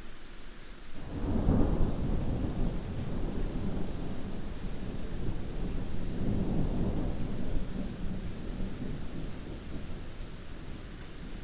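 Heavy rain falling steadily, with a deep roll of thunder that breaks in about a second in, swells again a few seconds later and dies away near the end.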